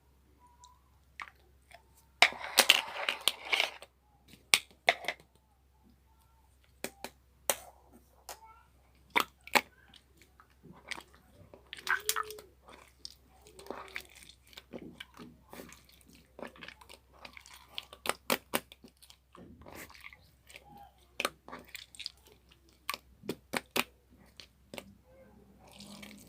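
Close-up crunching and chewing sounds: irregular sharp crackles, with a denser, louder burst of crunching about two to four seconds in.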